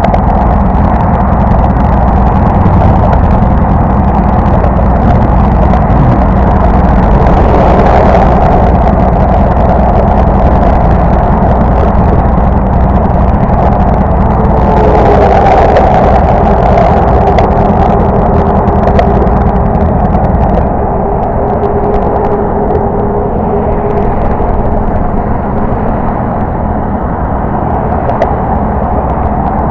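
Motorcycle engine running steadily while riding, a dense low drone with rushing noise over it; a faint steady tone sounds in the middle stretch, and the sound eases a little about two-thirds of the way through.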